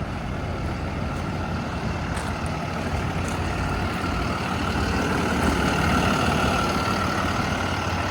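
Freightliner M2 box truck's Cummins turbo diesel engine running steadily, with a higher whine that swells about halfway through and then eases.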